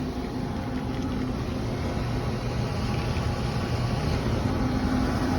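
Air-conditioning system running under test: a steady mechanical hum with low tones and fan-like noise.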